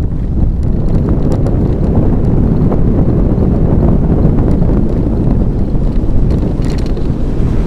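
Loud, steady low rumble of wind buffeting the microphone, with a few faint clicks.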